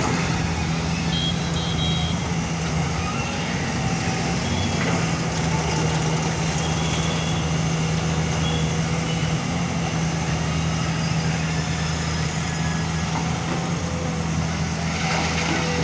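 Heavy diesel engine of a JCB backhoe loader running steadily under working load. A few faint, short high beeps sound now and then.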